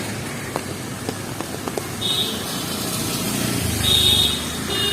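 Rainy city street ambience with traffic: a vehicle rumbles past, loudest about four seconds in, with short high-pitched horn beeps about two seconds in and again near the end.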